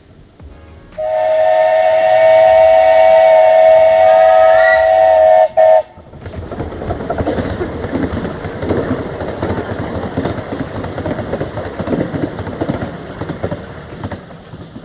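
Miniature railway locomotive whistle blowing a loud multi-tone chord for about five seconds, briefly cut near the end. It is followed by a steady rough rushing noise.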